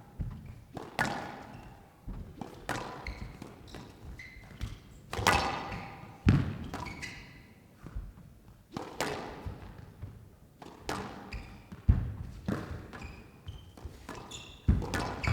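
A squash rally: the ball is struck by rackets and thuds against the court walls about every one to two seconds, each hit echoing briefly in the enclosed court.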